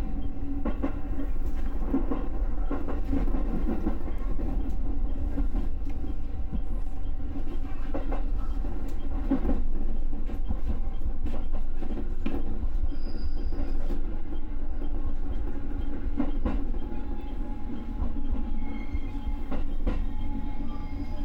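Electric train running along the track, heard from on board: a steady rumble with a constant hum, and a clack now and then as the wheels cross rail joints.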